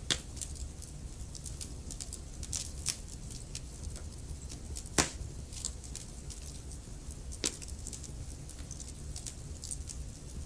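Wood logs burning in a fireplace, crackling with many small sharp pops and a few louder snaps over a low steady rumble of flame. The loudest snap comes about five seconds in.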